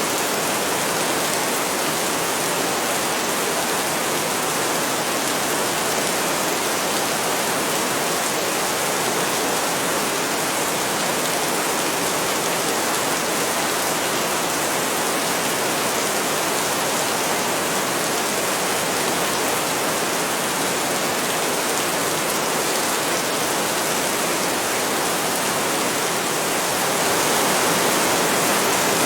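Heavy rain falling in a steady, dense hiss, a little louder near the end.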